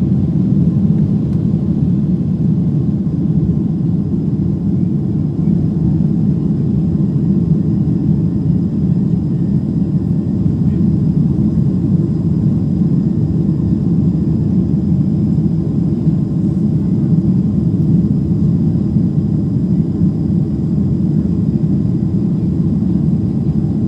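Steady low rumble of jet engines and airflow inside the passenger cabin of a Boeing 767-300ER, with a faint thin steady whine above it.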